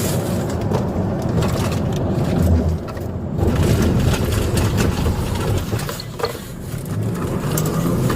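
Car engine and road noise from a vehicle being driven during a police pursuit: a steady, dense rumble.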